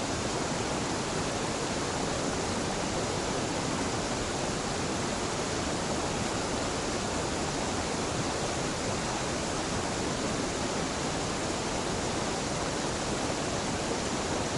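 A small mountain waterfall at a stream confluence, falling water making a steady, even rush with no change.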